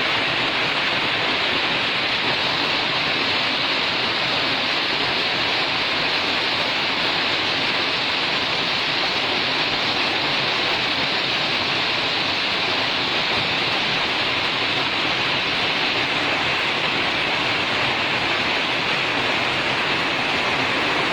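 Hail falling heavily in a steady, unbroken clatter.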